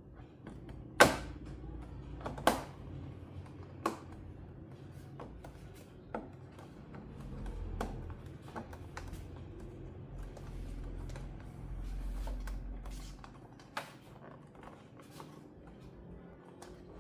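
Scattered clicks and knocks of parts and tools being handled on a workbench, two louder knocks near the start and lighter taps throughout, over a low hum.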